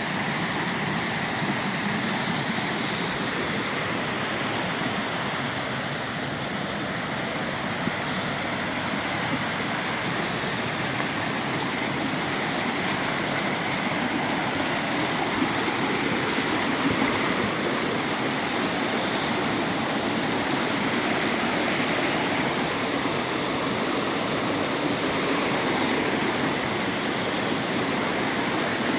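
Running water, a steady continuous rush with no change in level.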